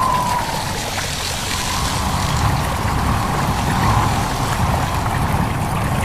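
Stream water babbling steadily while wind blows, with a faint wavering whistle of wind.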